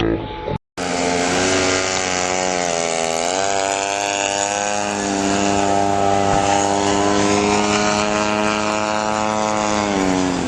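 Radio-controlled model airplane's engine and propeller running at a steady pitch, dipping briefly about three seconds in and falling away near the end.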